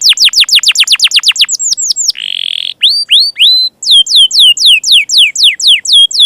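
Domestic canary singing loudly: a fast run of repeated downward-sweeping whistled notes, a short buzzy trill about two seconds in, three rising notes, then another quick series of falling notes.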